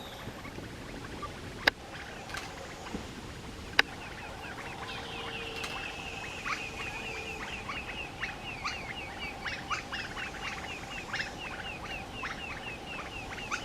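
Forest bird calling a long, fast run of short falling notes, about three or four a second, starting about four seconds in, over a steady insect drone. Two sharp clicks come before it.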